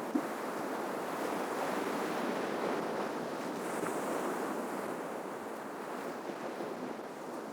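Ocean waves washing steadily on the shore, a continuous surf rush that swells a little in the middle.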